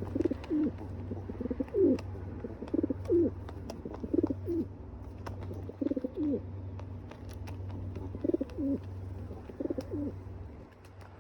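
A pigeon cooing over and over in short low coos, roughly one every second or two, over a steady low hum that stops near the end.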